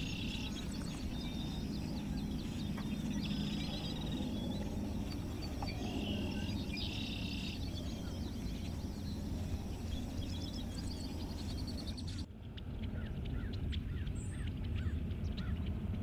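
Birds calling over a steady low rumble: short trilled calls come several times, then after an abrupt change in the background about twelve seconds in, a scatter of quick high chips.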